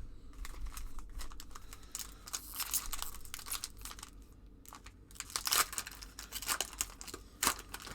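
Trading cards and their pack wrapper being handled: irregular bursts of crinkling, tearing and rustling, loudest about two seconds in and again in the second half.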